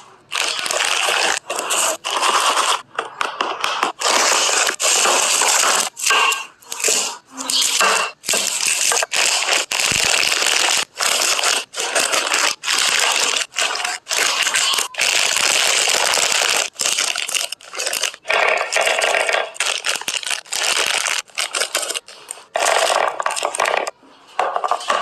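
Plastic snack packets rustling and crinkling as they are handled, broken by frequent abrupt cuts.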